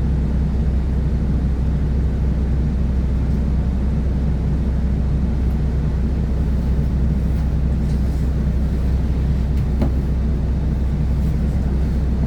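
Class 172 Turbostar diesel multiple unit running along the line, heard from inside the carriage: a steady low rumble of its underfloor diesel engine and wheels on the track, with one brief click about ten seconds in.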